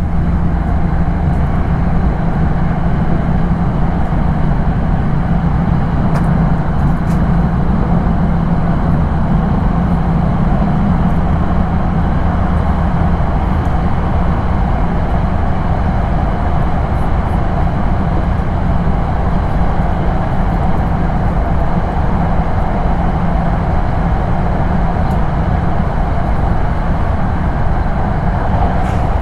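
Steady running noise of a Hokkaido Shinkansen train at speed, heard from inside the passenger car as it runs through a tunnel.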